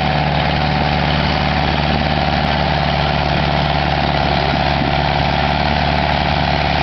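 International B250 tractor's diesel engine idling steadily, with an even, unchanging note.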